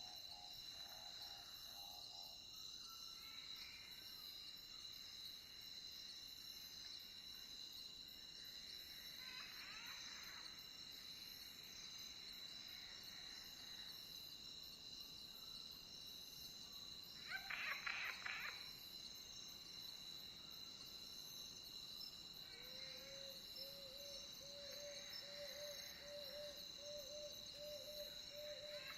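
Night nature ambience: faint, steady insect chirring throughout, with a few short bird calls, the loudest about 18 s in. Near the end comes a run of about a dozen short, low calls repeated at an even pace.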